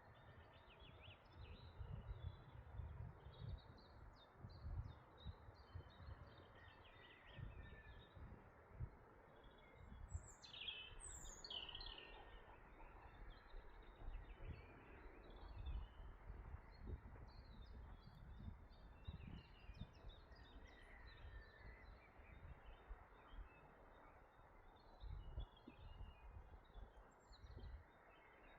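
Faint songbirds chirping and twittering throughout, with two louder downward-sweeping calls about ten to twelve seconds in, over a low rumble that comes and goes.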